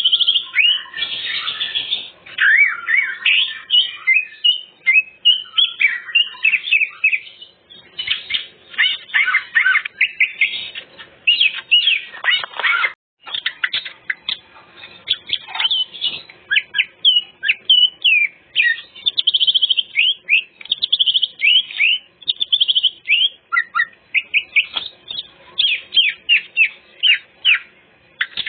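Greater green leafbird (cucak ijo) singing a long, rapid, varied song of quick whistled notes, slurs and chattering trills, running through its repertoire of mimicked phrases with hardly a pause.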